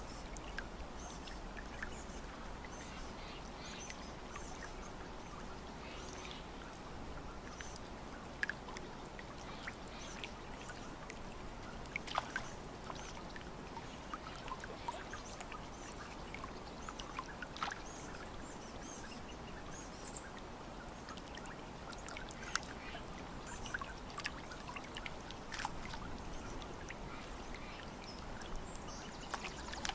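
Lake water lapping at the shore: a steady wash with frequent small, irregular splashes and drips. Faint bird calls now and then.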